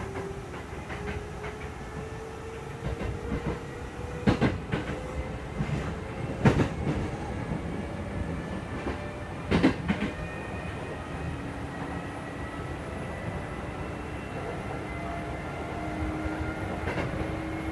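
Kintetsu 2430-series motor car running, heard from inside the cabin: a steady rumble with a motor whine slowly rising in pitch as the train gathers speed. A few sharp knocks from the wheels on the track come in the middle.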